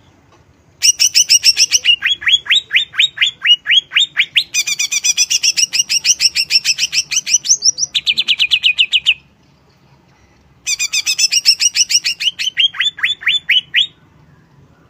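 Greater green leafbird (cucak ijo) singing in two loud bouts of rapid, repeated whistled notes, many sweeping downward, about five or six a second. The bouts are split by a pause of about a second and a half.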